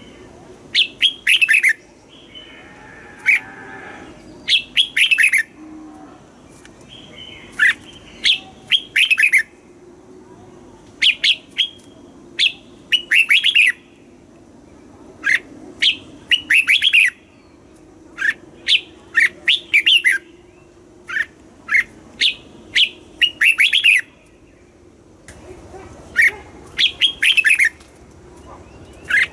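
Red-whiskered bulbul singing: short phrases of quick, clear notes, one after another with brief pauses between them, over a faint steady low hum.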